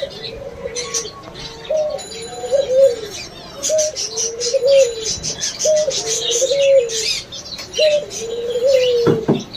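Dove cooing: a phrase about every two seconds, each a short higher note followed by a longer, lower coo. Small birds chirp high above it throughout, and there is a sharp knock near the end.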